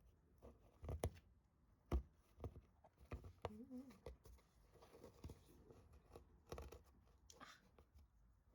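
Faint scattered taps, clicks and rustles, the sharpest about one and two seconds in, with a brief wavering pitched sound a little over three seconds in.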